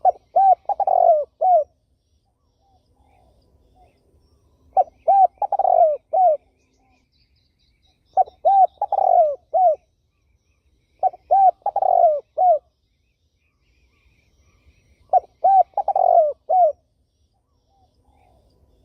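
A spotted dove cooing: five repeated phrases of a few short coos around a longer middle coo, one phrase every three to four seconds.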